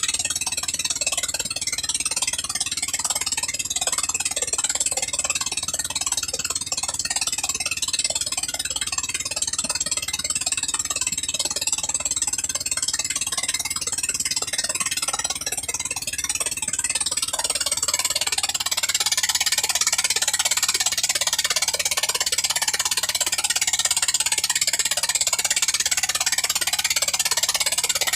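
Small 13 HP gasoline engine running steadily with a rushing hiss over it. About 17 seconds in the low hum weakens and the hiss grows louder.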